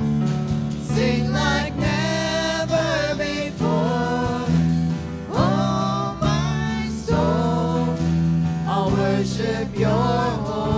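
Live worship singing: voices singing a slow praise song over sustained band accompaniment.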